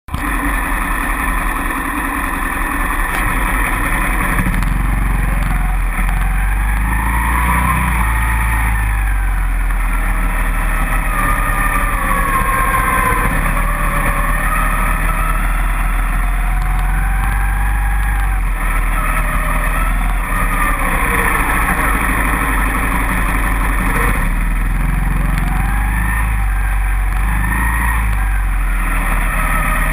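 Dirt bike engine revving as it is ridden, its pitch rising and falling over and over as the rider works the throttle and gears, over a steady low rumble.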